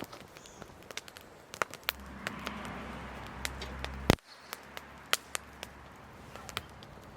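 Wood fire crackling, with sharp irregular pops and snaps of burning firewood. A low rumble sits underneath from about two seconds in, ending with the loudest snap about four seconds in.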